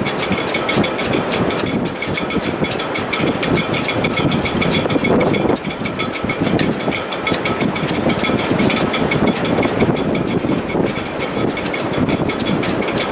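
Wind in a sailboat's shrouds and rigging in heavy weather: a steady loud rushing rumble with faint high whistling tones over it, and a fast, even ticking running through it.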